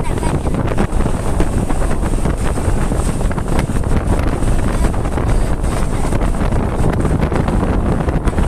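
Wind buffeting the microphone over the steady low rumble of a moving vehicle on the road.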